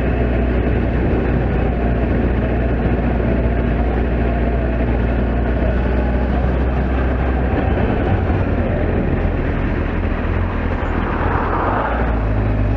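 Kawasaki Z750S motorcycle's inline-four engine running steadily under way, with road and wind noise; the engine note shifts a little over halfway through.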